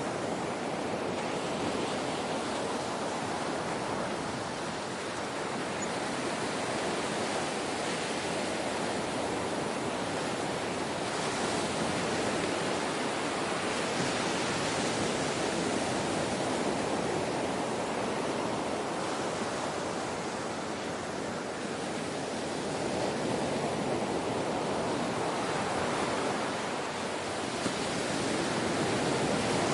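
Ocean surf: a continuous wash of breaking waves that swells and eases gently every several seconds.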